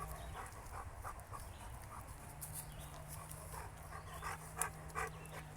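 A dog panting softly, in short, evenly repeated breaths.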